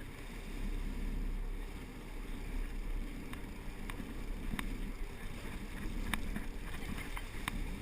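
Steady low rumble and water wash of a sport-fishing boat under way, with a few scattered sharp clicks.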